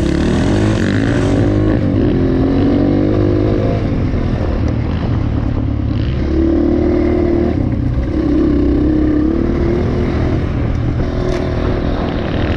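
Dirt bike engine pulling away and running along a trail, the revs climbing at first and then held and dropping in turn. A couple of sharp clicks from stones or the bike come through over the steady low rumble.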